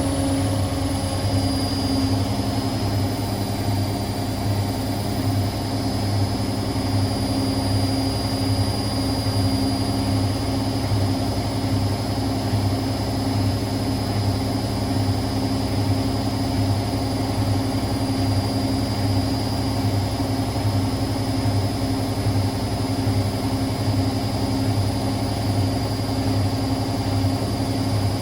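Hotpoint WML540 washing machine spinning its drum at high speed, likely in the final spin of a Fast Wash cycle. A steady motor whine sits over a low hum that pulses evenly with the drum's rotation.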